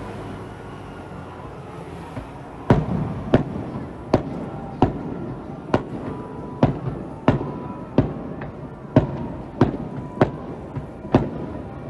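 Aerial firework shells bursting in a quick string of sharp bangs, about one every two-thirds of a second, starting a few seconds in, each with a short echoing tail.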